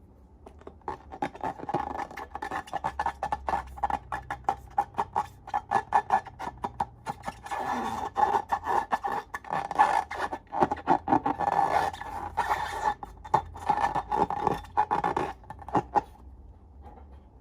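Slime being squeezed and worked, making a dense run of sticky crackles and small pops over a wet rasp. It starts about a second in and stops shortly before the end.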